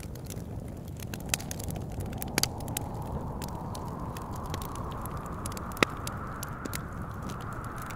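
Wood fire crackling, with scattered sharp pops and one louder pop about six seconds in, over a steady wind whose whistle dips lower in pitch and then climbs back.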